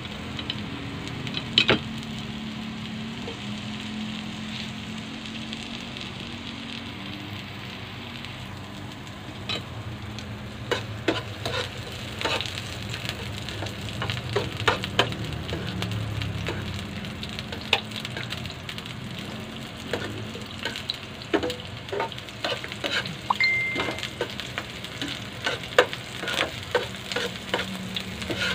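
Sliced red onions sizzling in hot oil in a nonstick frying pan, with frequent sharp clicks and taps from metal tongs turning them against the pan, most of them in the second half.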